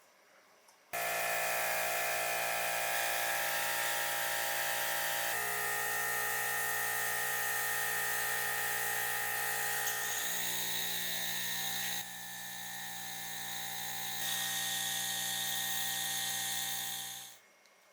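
A small high-speed electric tool motor runs steadily, starting abruptly about a second in and stopping shortly before the end. Its pitch and level shift suddenly a few times along the way.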